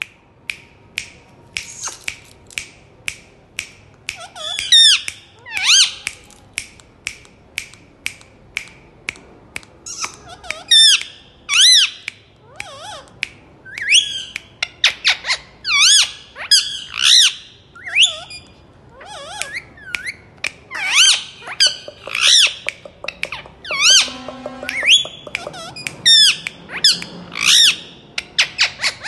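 Green parakeet calling throughout: rapid sharp chirps mixed with repeated rising-and-falling squawks and shrieks. About 24 seconds in there is a brief lower, voice-like sound.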